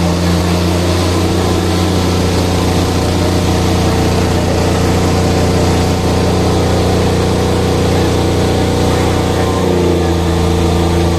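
Tractor diesel engines running steadily under load, a low even drone, with a slight shift in the engine note about ten seconds in.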